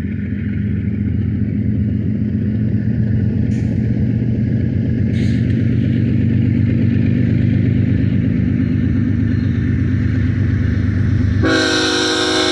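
Diesel locomotives of a BNSF freight train (a GE ET44C4 leading) running with a deep, steady engine drone that grows slightly louder. About eleven seconds in, the lead locomotive's air horn sounds suddenly: a loud chord of several tones.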